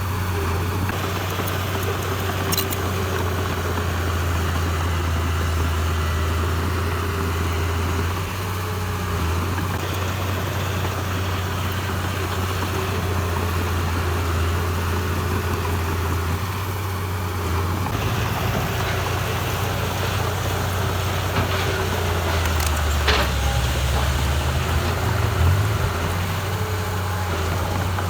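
Heavy diesel engine of earthmoving machinery running steadily with a low drone. Its note shifts partway through, and a brief knock comes about two-thirds of the way in.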